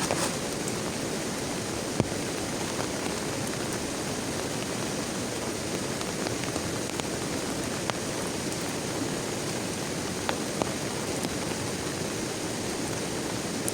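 Heavy rain falling steadily, with a few louder single drops ticking now and then.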